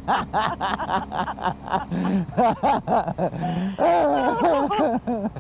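People laughing hard, in quick repeated bursts for about two seconds, then laughter mixed with half-formed words.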